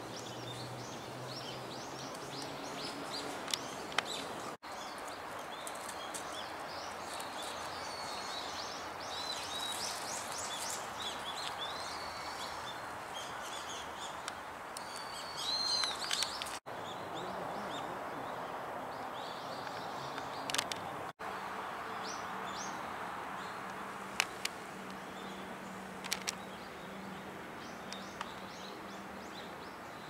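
Small birds calling in short, high chirps scattered throughout, over a steady background hum of outdoor noise, with a few sharp clicks.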